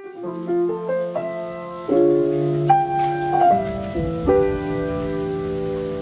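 Solo piano intro of a slow ballad: soft broken-chord notes, then fuller chords held at about 2 s and again at about 4 s, with no singing yet.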